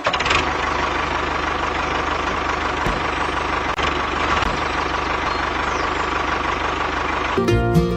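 Small motor of a homemade mini tractor running steadily. Music cuts in near the end.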